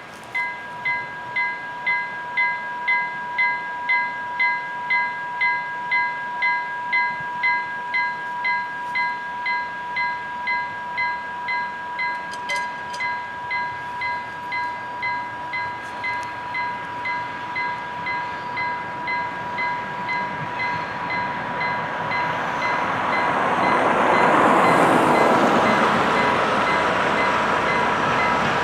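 Level crossing warning bell ringing in a steady rhythm of about two strikes a second. From about 22 seconds in, the noise of the approaching Otso4 DD rail vehicle rises and becomes louder than the bell.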